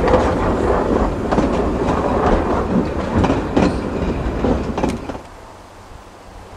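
Narrow-gauge railway carriages rumbling past, their wheels clicking irregularly over the rail joints. About five seconds in the sound drops suddenly to faint wind noise.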